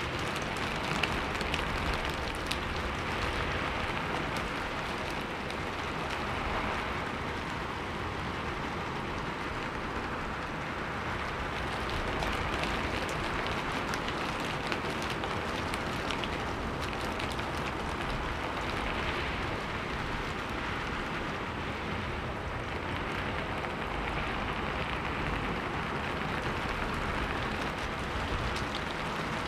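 Steady rain, with the patter of many small drops, used as a background soundtrack.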